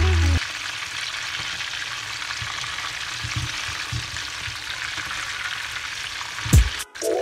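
Chapli kababs shallow-frying in hot oil, an even steady sizzle. A few light knocks come as a wooden spoon moves the patties. Music cuts off about half a second in.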